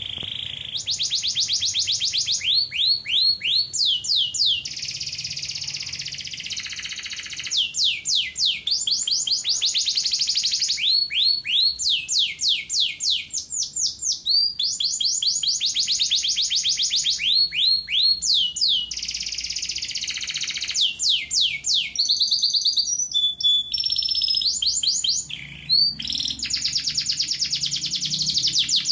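Male domestic canary singing a long, continuous song: rapid rolls of repeated downward-sweeping notes alternating with buzzy trills, with a few brief breaks between phrases. It is a full song without mistakes, the kind used to tutor young canaries.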